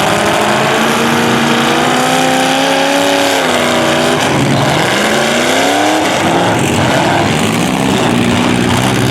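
Demolition derby car engines running loud and revving, their pitch rising and falling several times, with a steep rev about five to six seconds in.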